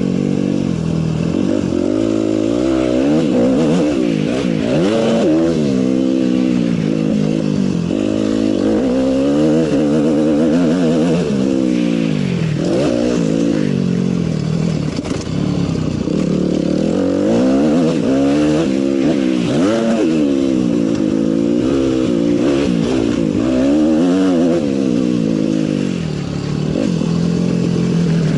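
Several motocross bikes racing, their engines revving up and down over and over as they shift gears and throttle through the track.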